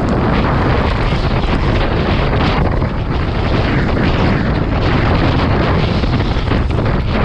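Strong storm wind buffeting the microphone: a loud, continuous rush of noise, heaviest in the low end, swelling and easing slightly.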